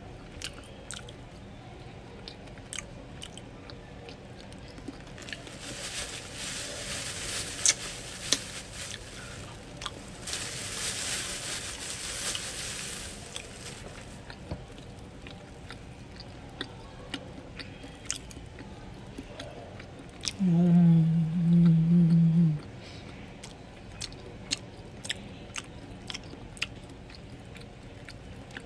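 Close-up chewing of a Big Mac: wet chewing with many small mouth clicks. About three-quarters of the way through comes a steady low hum lasting about two seconds, the loudest sound.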